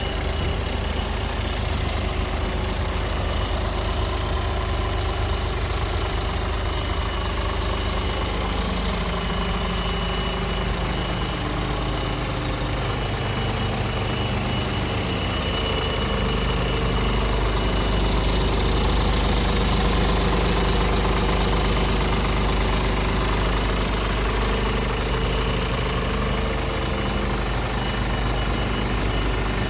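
Diesel engine of a Scania R450 truck, a 13-litre inline six, running steadily. It gets slightly louder around the middle.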